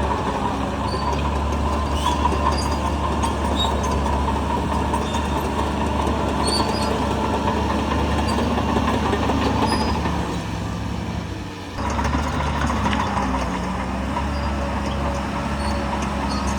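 Diesel engine of heavy earthmoving machinery running steadily under load, with scattered light clanks of metal and stone. The sound dips briefly and changes abruptly about twelve seconds in.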